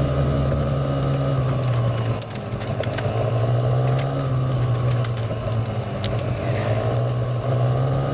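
Motorcycle engine running steadily under way, a constant low drone that dips briefly about two seconds in, with scattered clicks and knocks over it.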